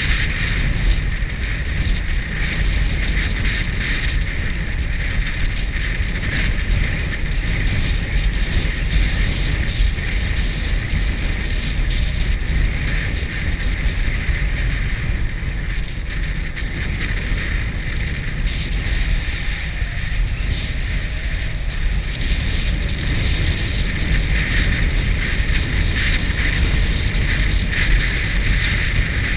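Wind rushing over the microphone and a motorcycle running at a steady pace while riding, with a heavy low rumble.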